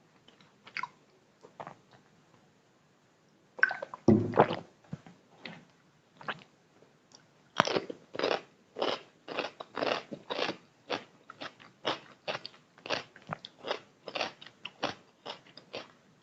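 A person biting and chewing food close to the microphone, with wet crunching. A few faint mouth clicks, then a loud bite about four seconds in, and from about halfway on steady chewing at roughly two to three chews a second.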